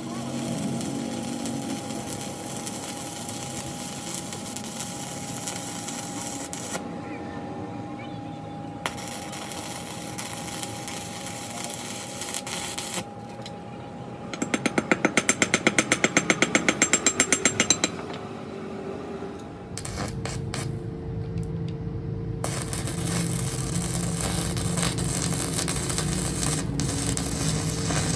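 Metalworking power tools in a repair shop: a steady running tool with a constant whine, then about three and a half seconds of rapid machine hammering at several blows a second, then another steady running tool with a lower whine.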